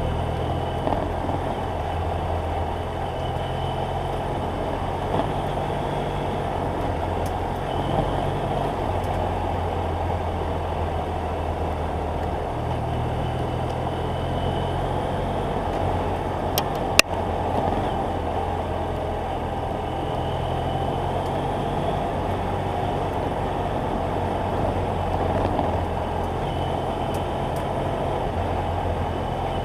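BMW F800GS Adventure parallel-twin engine running under way, picked up by a bike-mounted action camera along with wind and road rush; the engine note steps between a few steady pitches as the throttle and gears change. One sharp click sounds about seventeen seconds in.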